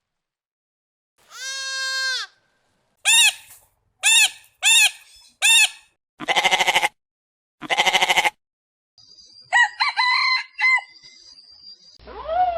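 Separate farm animal calls, cut one after another with silent gaps: a single long call, then four short calls, two bleats, and a burst of chicken clucking near the end.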